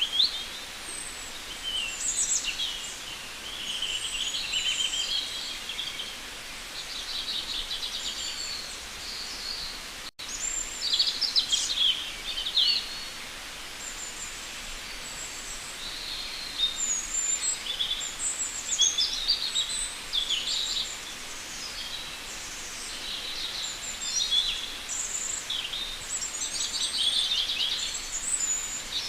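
Songbirds singing and calling, several at once: quick high chirps, fast trills and short whistled phrases that overlap without a break, over a faint steady hiss, with a brief break in the sound about ten seconds in.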